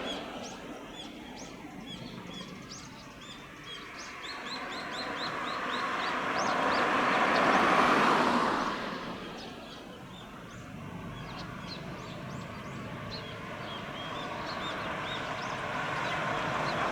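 A truck drives past, its noise swelling to a peak about eight seconds in and fading away, then another begins to approach near the end. Small birds chirp throughout.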